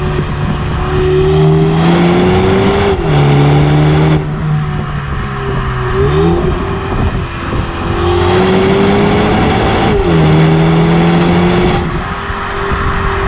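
BMW 330i's 2.0-litre turbocharged four-cylinder (B48) accelerating hard, its pitch climbing and then dropping sharply at upshifts about 3 and 10 seconds in, with further pitch changes around 4 and 6 seconds; the engine eases off near the end.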